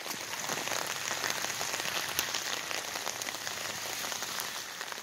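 Heavy rain falling steadily, with many small drop hits on a small umbrella held overhead.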